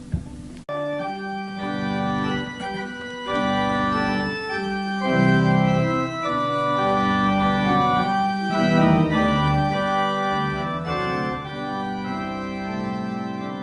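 Organ playing sustained chords, the notes held steady and changing every second or so, after a brief break about half a second in.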